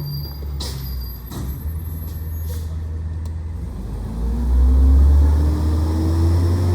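Garbage truck's diesel engine running, with a few short sharp sounds in the first second and a half. About four seconds in, the engine revs up and gets louder, with a whine rising in pitch.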